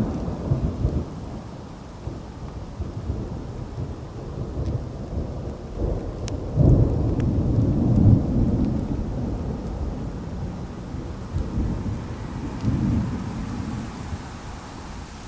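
Thunder rumbling over steady rain in a thunderstorm. The rumble fades from a loud peak at the start, swells again about six seconds in for a couple of seconds, and rises once more near the end.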